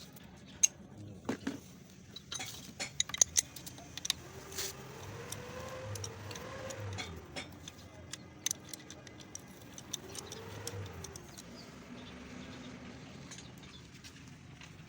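Scattered sharp metallic clinks and taps, most in the first three seconds, like hand tools and parts handled during engine work. A motor sound rises and falls in pitch twice, once in the middle and again about ten seconds in.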